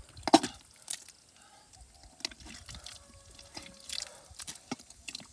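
Irregular water drips and small splashes, a scatter of short clicks with no steady rhythm.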